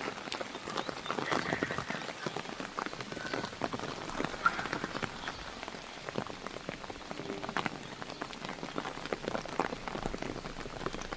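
Heavy monsoon rain falling, a steady, dense patter of drops striking a hard surface.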